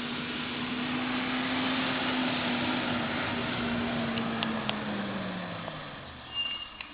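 Diesel engine of a Labrie Top Select rear-loading recycling truck running at raised revs, steady at first, then winding down in pitch and loudness over about the last two seconds. This fits the engine speeding up to drive the packer hydraulics during a pack cycle. A few light clicks come through, and a short high squeal sounds near the end.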